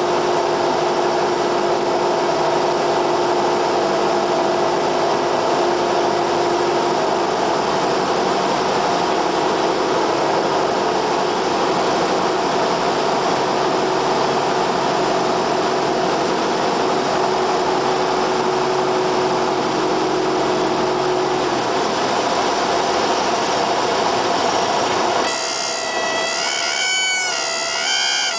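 Cessna 172R's four-cylinder Lycoming engine and propeller, heard inside the cockpit over the airflow, running steadily; its lowest tones drop away about three-quarters of the way through. Near the end a warbling, wavering tone sounds for about three seconds, typical of the stall warning horn during the landing flare.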